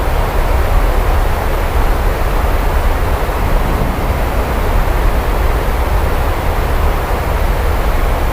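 Heavy rain falling steadily, with a deep continuous rumble underneath and no separate thunderclap.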